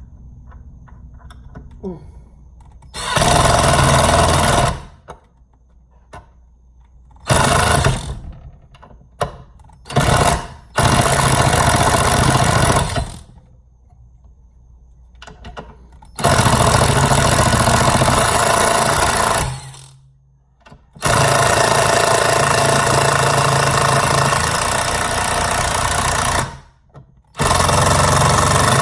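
Ryobi 18-volt cordless impact driver hammering in repeated stop-start bursts, from half a second to about five seconds long, as it drives a large slotted (flathead) screw.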